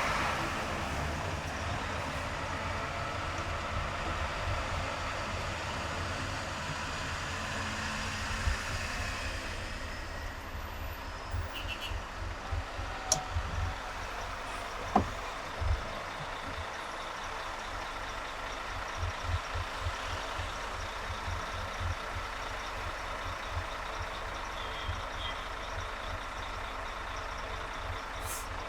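Road traffic heard from a moving car: steady engine and tyre noise, with irregular low thumps and a few sharp clicks from about ten seconds in.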